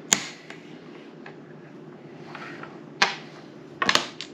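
Domino tiles clicking on a table as they are placed and shuffled: a sharp click just after the start, another about three seconds in, and a quick run of clicks near the end.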